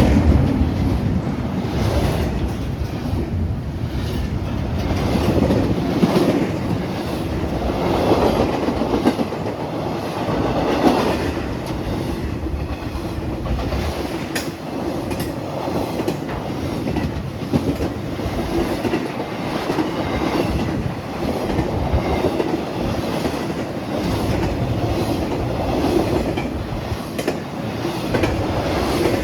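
A train rolling steadily past, its wheels clicking rhythmically over the rail joints under a continuous rumble.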